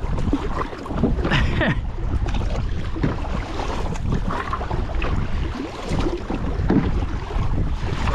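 Wind rumbling steadily on the microphone while kayak paddles dip and splash in the water at irregular intervals.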